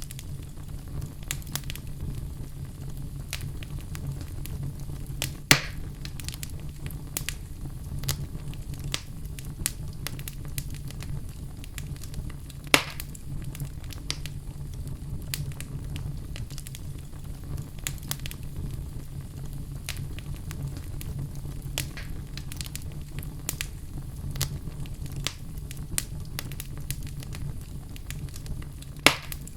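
Fire crackling: a steady low rumble of flames under constant small crackles, with three louder pops spread through it.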